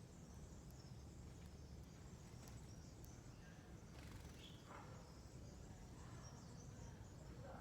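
Faint, scattered bird chirps over a low, steady background rumble.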